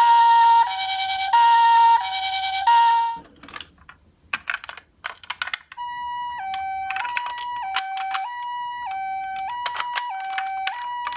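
Toy ambulance minicars sounding an electronic two-tone hi-lo siren, alternating between a higher and a lower tone. A loud siren cuts off about three seconds in, and a stretch of sharp clicks and rattles follows. From about six seconds a quieter two-tone siren sounds, with more clicks over it.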